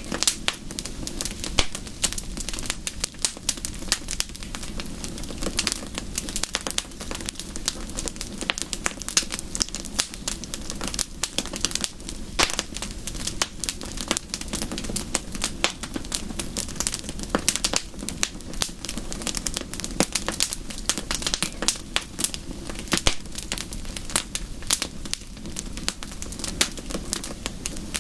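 Wood fire crackling, with many small sharp pops coming irregularly and close together over a steady low hiss.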